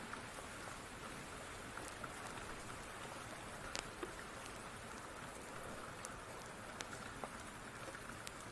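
Steady rain, with scattered sharp ticks and pops heard through it now and then.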